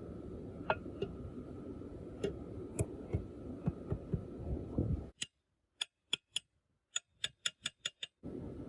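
Scattered sharp clicks and taps over a steady low hum. About five seconds in, the hum cuts out to dead silence while the clicks come faster, roughly three or four a second, and the hum returns near the end.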